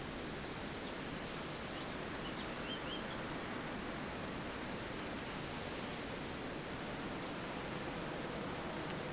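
Steady wind rushing through forest trees, with a few faint, quick bird chirps about two seconds in.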